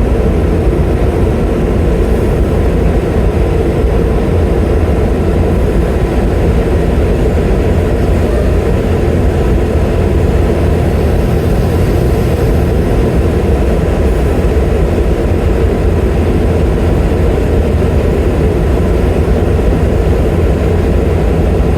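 Semi truck's diesel engine running with a steady, heavy drone, heard from inside the cab.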